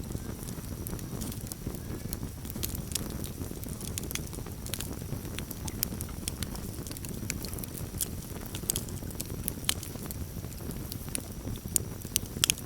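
Campfire crackling: irregular sharp pops and snaps over a steady low rumble of burning wood, with a quick cluster of louder pops near the end.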